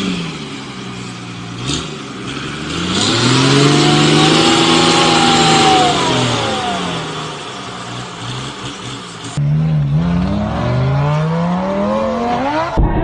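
A motor vehicle's engine revving up, holding, and falling back over several seconds, with a loud hiss at its peak. After an abrupt cut, another engine climbs steadily in pitch.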